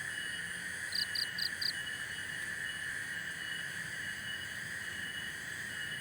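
Steady night chorus of crickets and other insects trilling without a break. About a second in, a quick series of four short high pips sounds once.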